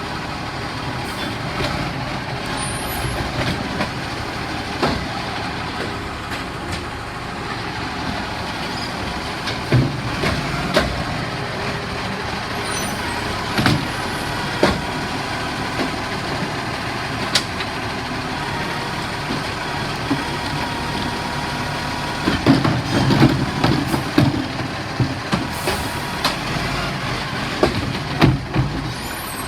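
Euro 6 garbage truck running steadily while collecting wheelie bins, with a series of clunks and knocks as bins are lifted and emptied. The knocks are busiest over the last several seconds, and a faint steady whine runs through the middle stretch.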